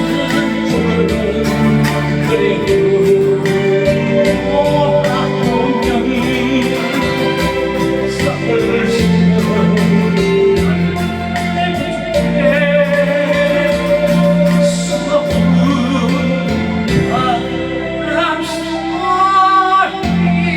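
A Korean ballad sung over a backing track with a steady beat.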